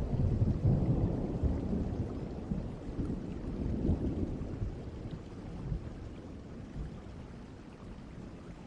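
Distant thunder rumbling and slowly fading away, over a steady hiss of rain.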